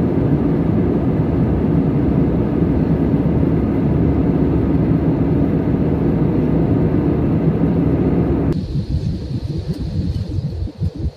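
Airliner cabin noise in flight: the steady rumble of the jet engines and rushing air. About eight and a half seconds in it cuts off abruptly and gives way to a quieter, uneven sound.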